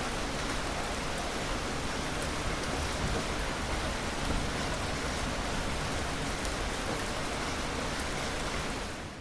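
Steady heavy rain falling on a surface, a dense even hiss with scattered drop ticks, fading out near the end.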